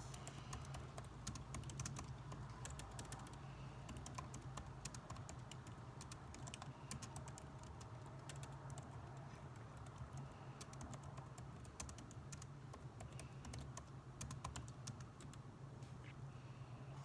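Typing on a computer keyboard: irregular runs of quick keystroke clicks with short pauses between them, over a steady low hum.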